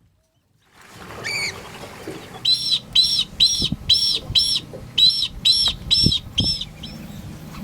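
Comb-crested jacana calling: one high note, then a quick series of about eleven sharp, arched piping notes, roughly two a second, with a brief break midway.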